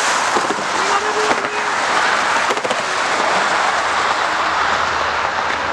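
Steady rushing outdoor noise with a few light clicks.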